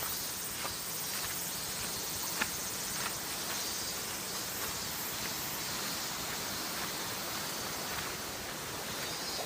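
Steady rushing of a waterfall, with a few faint taps over it.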